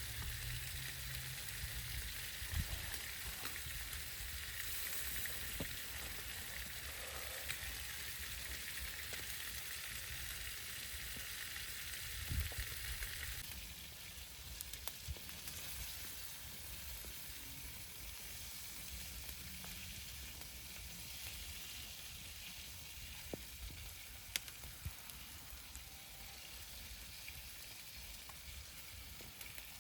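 Food sizzling in a pan over heat: a steady frying hiss with scattered small pops. The hiss drops in level about 13 seconds in.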